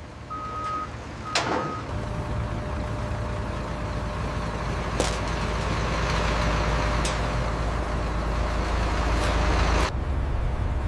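Two short electronic beeps, then a heavy truck engine starts up and runs with a steady low rumble and hum, stopping abruptly near the end. A few sharp clicks sound over it.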